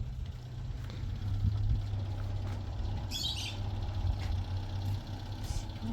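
A bird gives one short, harsh, high-pitched call about three seconds in, over a steady low rumble.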